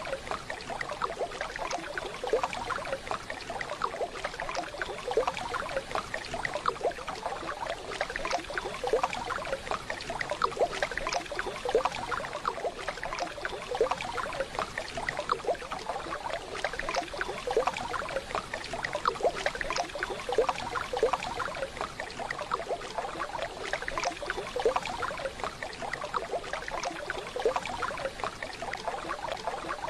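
Waterfall water running and splashing steadily, a dense babbling texture with no break.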